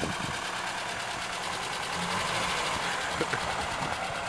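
Lada Niva's four-cylinder engine running steadily at low revs as the SUV pulls slowly away.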